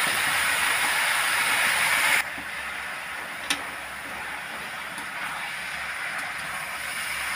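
Hot oil and onion masala in a kadhai sizzling loudly as chopped fresh fenugreek (methi) leaves are tipped in. About two seconds in the sizzle drops suddenly to a quieter hiss while the leaves are stirred, with one clink of the perforated metal spatula near the middle.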